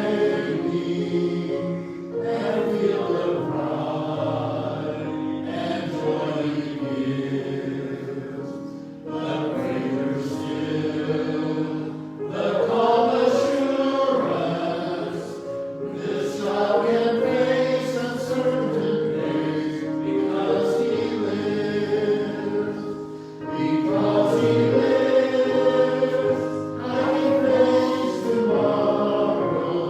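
A choir singing a gospel hymn in long held phrases, with brief breaks between the lines.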